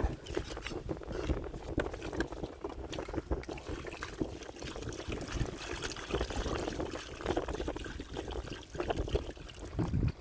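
Water sloshing and trickling, with many small irregular splashes throughout.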